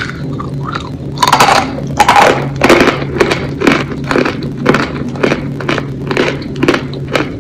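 Close-miked bite into a soft boiled dumpling, then chewing: wet mouth and chewing sounds coming about twice a second, over a steady low hum.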